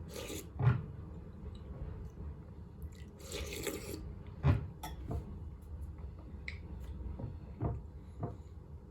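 Close-miked eating of mushroom soup: chewing and two short slurps, with several sharp clicks or knocks, the loudest about a second in and near the middle.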